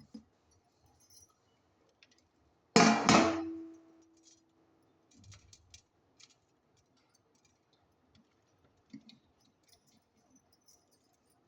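A metal kitchen utensil is struck or set down with one sharp clang that rings on for about two seconds, followed by a few light clinks and taps.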